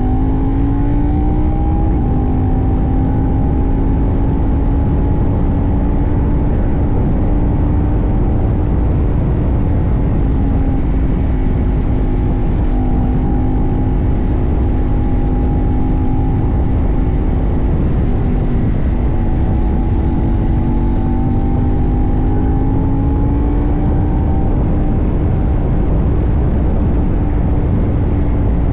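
CFMoto 800NK's 799 cc parallel-twin engine pulling up through the revs, shifting about two seconds in, then running at a fairly steady cruise with small throttle changes, heard from a tank-mounted camera with heavy wind rush.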